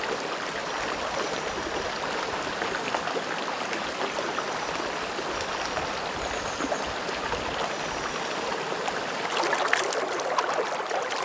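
Shallow stream running over rocks, a steady rush. About nine seconds in, sharper splashing as water is scooped by hand and dribbles back down.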